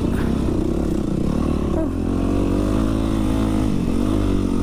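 Dirt bike engine running under the rider, its pitch rising and falling with the throttle.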